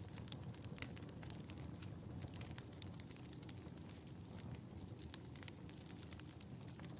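Wood fire crackling in a fireplace: irregular sharp snaps and pops over a faint, steady low rumble of the flames.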